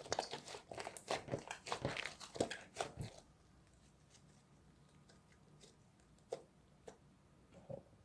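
Slime being squeezed and pressed by hand: a quick run of small clicks and pops for about three seconds, then a few single clicks near the end.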